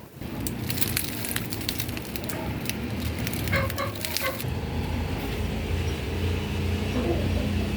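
Chickens clucking a few times over a dense crackling and rustling, then a steady low rumble that builds from about halfway through.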